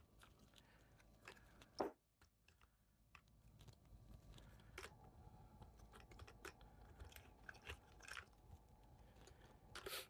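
Near silence with faint, scattered clicks and taps of small plastic parts being handled while an RC truck is taken apart; one slightly louder click about two seconds in.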